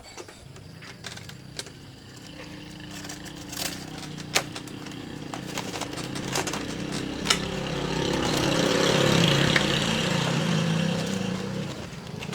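A motor vehicle's engine running, building gradually louder to a peak and easing off near the end, with scattered clicks and knocks over the first few seconds.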